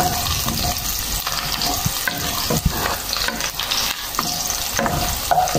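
Chopped garlic and onion sizzling in hot oil in a pot, sautéing, while a wooden spatula stirs them, scraping and tapping against the pot.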